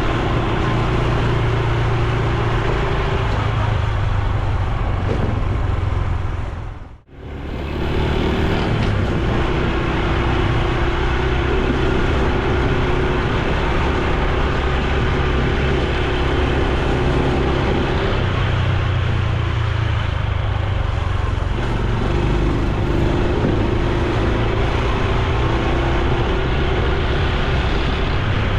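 Honda Super Cub C125's single-cylinder four-stroke engine and exhaust running steadily while riding, with road and wind noise. The sound cuts out briefly about seven seconds in.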